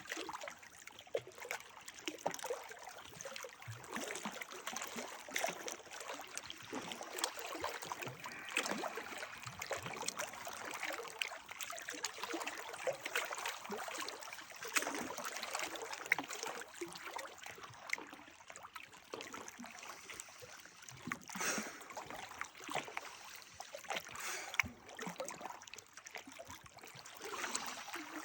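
Running water trickling and gurgling steadily, with many small splashes.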